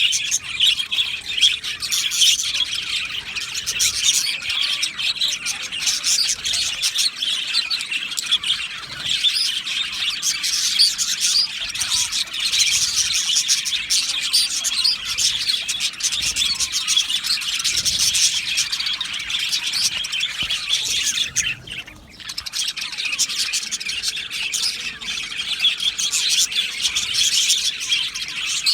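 A colony of budgerigars chattering and chirping together in a dense, continuous warble, with a short lull about three quarters of the way through.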